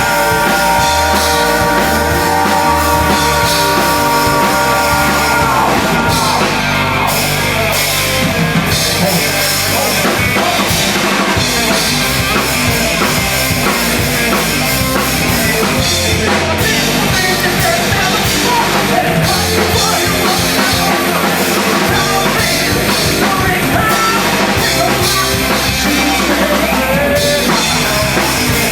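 Live post-hardcore band playing loud distorted rock on electric guitars, bass and drum kit. A held, ringing guitar chord for the first several seconds gives way to the full band playing busily.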